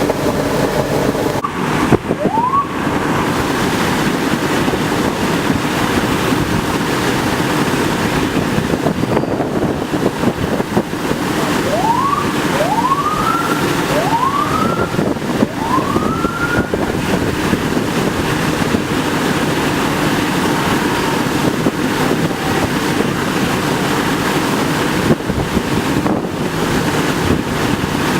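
Steady rushing noise, typical of water gushing from a sheared fire hydrant, under an emergency vehicle siren that gives one short rising whoop about two seconds in and four more in quick succession later on.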